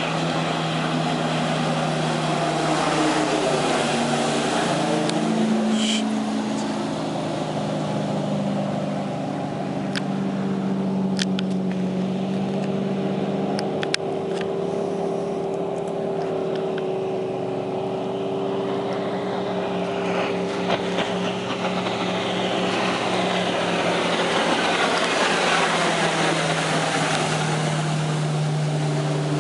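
2001 MasterCraft X-Star ski boat running on the lake under power, its inboard engine note steady and loud. The engine pitch rises a few seconds in and settles lower again near the end, with a sweeping pass-by quality.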